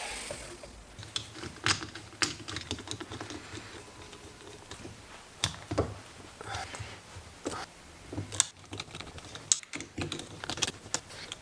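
Irregular light clicks and taps of hard objects, a few a second, uneven in spacing and strength.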